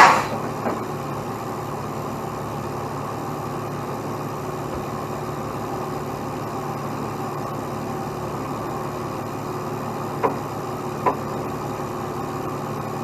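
Heavy diesel truck engine idling steadily. It opens with a brief loud rush of noise, and two short sharp clicks come near the end.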